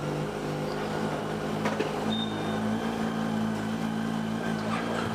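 Engine running steadily, a low droning hum with a few faint clicks over it.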